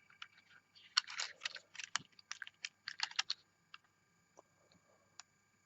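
Small die-cast toy bus handled in the hands: a quick run of light clicks and taps about a second in, thinning to a few single ticks near the end.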